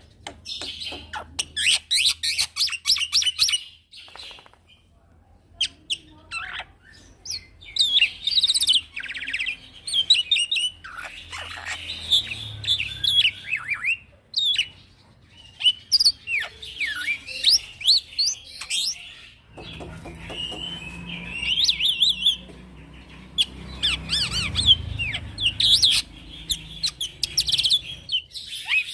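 Young male black-winged myna (jalak putih) singing in long, rapid runs of chirps, whistles and trills, with short pauses about four and fourteen seconds in.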